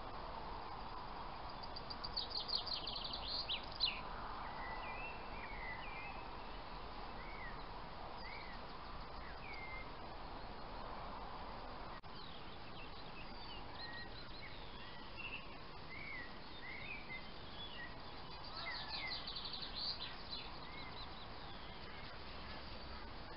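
Songbirds singing: a fast run of high notes about two seconds in and again near the end, with scattered short chirps between, over a steady background hiss.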